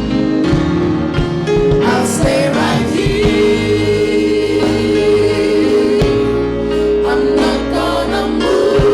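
Live gospel worship music: a choir and worship team singing with band accompaniment, held vocal notes over steady drum beats.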